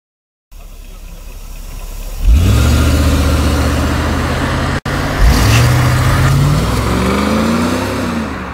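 Mercedes-Benz W124 400E/E420's M119 V8 at full throttle under kickdown. The engine note jumps sharply about two seconds in. After a brief break it pulls hard again, the revs climbing and then falling and rising once more near the end.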